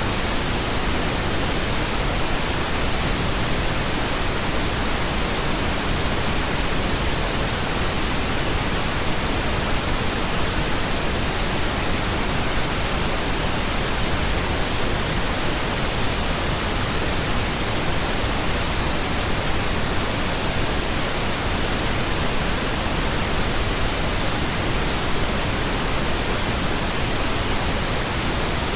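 Steady pink noise: an even, unchanging hiss spread across all frequencies, with nothing else in it.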